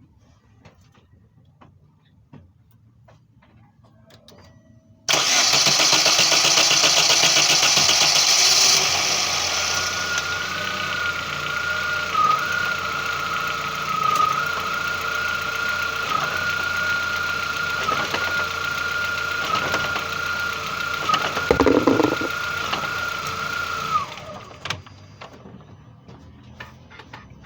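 Chevrolet Corsa's four-cylinder engine started about five seconds in, running for about twenty seconds with a steady high whine and one sharp knock near the end, then switched off. It is run so the broken engine mount can be seen moving.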